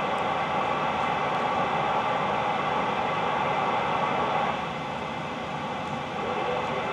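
CB radio receiver hiss: steady static with the distant station faded out. The noise drops a little about four and a half seconds in.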